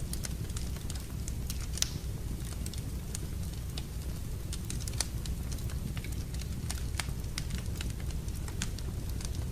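Wood fire crackling in a fireplace: irregular sharp pops and snaps over a steady low rumble of the flames, with the loudest snap just before two seconds in.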